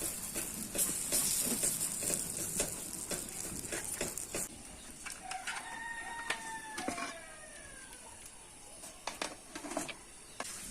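A rooster crowing once, one drawn-out rising-then-falling call about halfway through, over scattered light clicks and taps.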